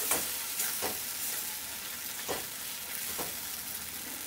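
Poppy seed paste sizzling in hot oil in a wok while being stirred, with about four scrapes of the spatula against the pan.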